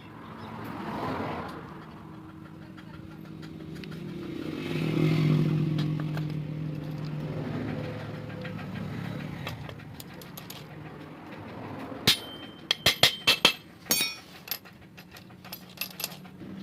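An engine running with a steady hum that swells and fades twice, then a quick run of sharp metallic clinks near the end.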